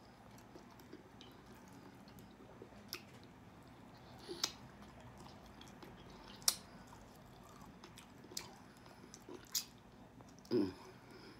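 Close-up sounds of eating chicken wings by hand: quiet chewing of the meat, with a handful of sharp wet mouth smacks spaced a second or two apart. A short falling vocal 'mm' comes near the end.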